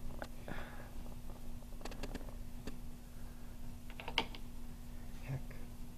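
Game tiles clicking against each other and the table as they are moved and laid down: scattered sharp clicks, with small clusters about two and four seconds in, over a faint steady hum.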